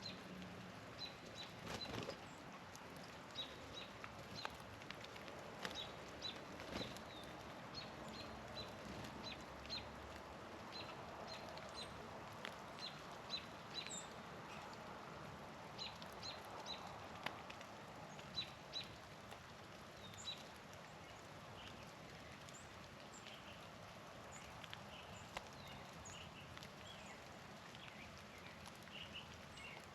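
Small songbirds giving short, high chip calls, scattered irregularly and faint over a steady background hiss, with a few sharp clicks.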